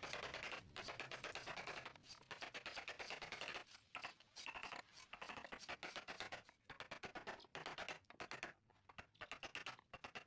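Faint scraping of a hand tool on wood in quick repeated strokes, broken by a few short pauses.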